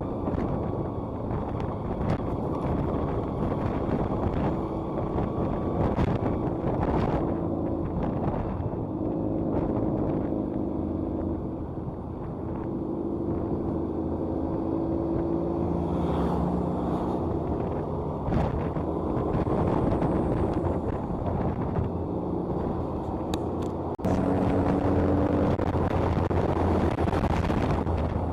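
Motorcycle engine running while riding on the road, its tone slowly rising and falling with speed, mixed with wind buffeting the microphone. The sound steps up suddenly in level near the end.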